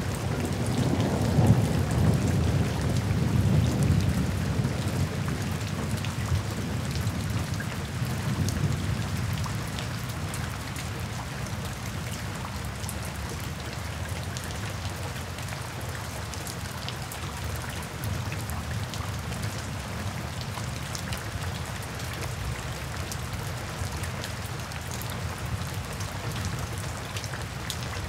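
Steady rain falling on a wet paved path, drops splashing into shallow puddles. A low rumble is loudest in the first few seconds and dies away by about ten seconds in.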